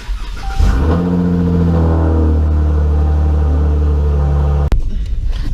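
Car engine starting: a brief crank, then it catches with a loud flare and settles into a steady idle. The sound changes abruptly near the end.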